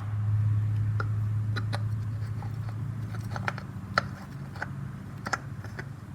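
Light clicks and ticks of a spin-on oil filter being threaded by hand onto a compact tractor's filter mount, over a low steady hum that slowly fades.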